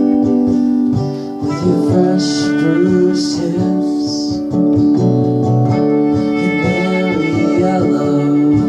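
A song performed on guitar, with a voice singing over the chords.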